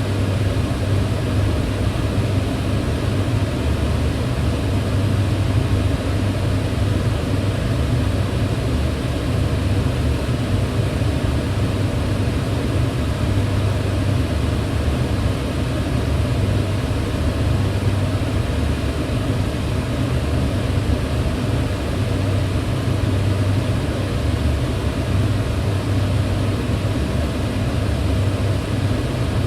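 Kitchen range hood's extractor fan running steadily: an even whoosh of moving air over a low hum from the motor.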